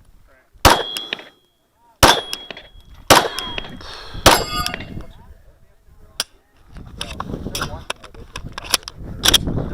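Glock 34 9mm pistol fired about nine times at uneven intervals. Several shots are followed by a ringing clang from steel targets being hit.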